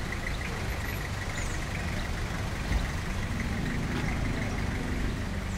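Street noise with a motor vehicle's engine running steadily at idle, a low steady rumble.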